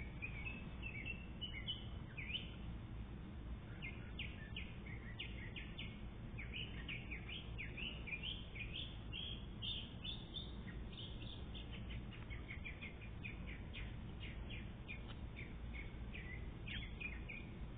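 Small birds chirping, many short quick calls one after another, over a steady low background hum.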